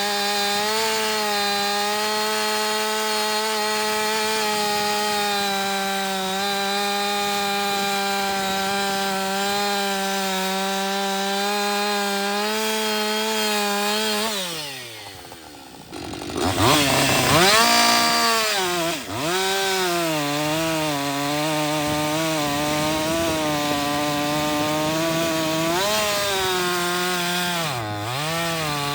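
Two-stroke chainsaw with a Holzfforma chain cutting wood at full throttle. About halfway through the throttle is let off and the engine note falls away. It is then revved back up and goes back into the cut, the pitch wavering as the chain takes load.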